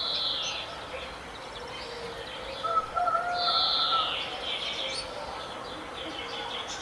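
Birds chirping and calling: high, falling chirps near the start and again just after the middle, with a lower, drawn-out call about three seconds in.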